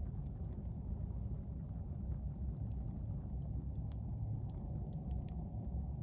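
Wood campfire crackling: scattered sharp pops and snaps at irregular moments over a steady low rumble.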